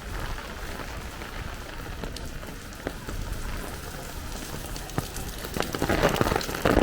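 Rain and dripping water falling steadily on wet pavement, with scattered sharp drops hitting close by. Near the end comes a louder rush of water pouring down from overhead, like a small waterfall.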